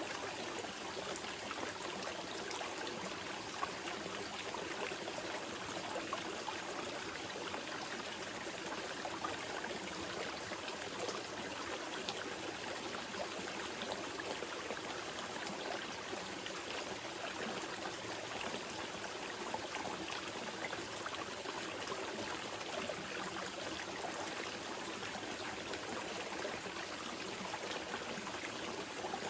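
Small mountain river flowing steadily over stones, a continuous rush of water with light trickling and splashing.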